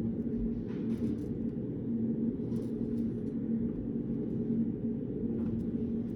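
Steady low hum of a reading room's background noise, with a faint wavering tone in it, and a few faint light clicks about a second in, again near the middle and near the end.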